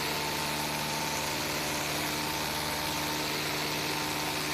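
Steady drone of a light single-engine airplane's piston engine and propeller in the cockpit, holding a constant pitch over a wash of airflow noise.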